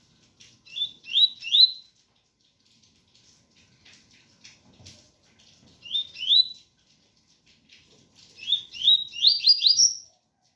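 Double-collared seedeater (coleiro) singing the 'tui-tui' song: short phrases of clear, rising slurred whistles. There are three notes about a second in, two a little past the middle, and near the end a faster run of about seven notes climbing higher. A faint patter of rain runs underneath.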